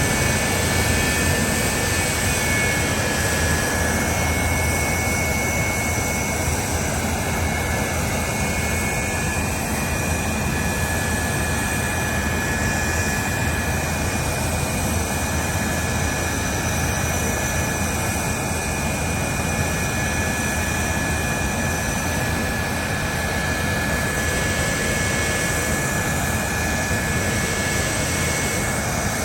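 Jet engine of the Hellfire jet truck running steadily, a constant rush with a high turbine whine that holds its pitch.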